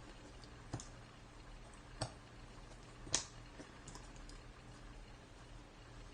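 Cardboard jigsaw puzzle pieces clicking and tapping on a table as they are handled and tried in place: a handful of separate light clicks, the sharpest about three seconds in, over a faint steady room hum.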